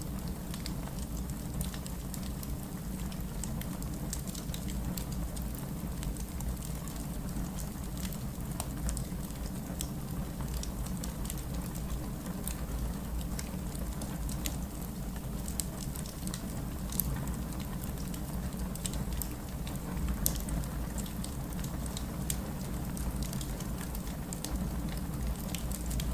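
Wood fire crackling in a fireplace: irregular small sharp pops and snaps over a steady low rumble of the flames.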